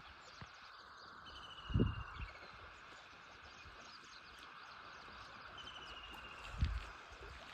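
Outdoor ambience with a steady hiss and two short, rapid bird trills of repeated notes. Two low thumps, at about two seconds and near the end, are the loudest sounds.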